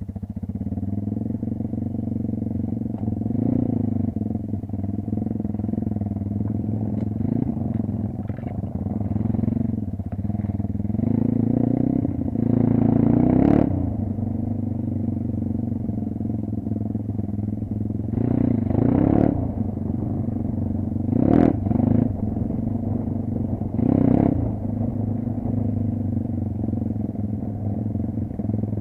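Vehicle engine running while driven off-road, its revs surging briefly about half a dozen times, with a few sharp knocks at the loudest surges.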